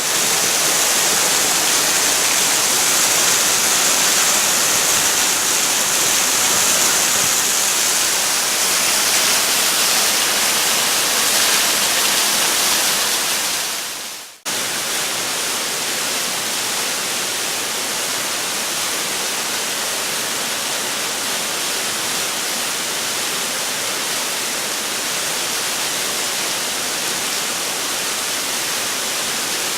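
A waterfall pouring down, a steady rush of water. About halfway through it fades out and cuts straight back in, a little softer.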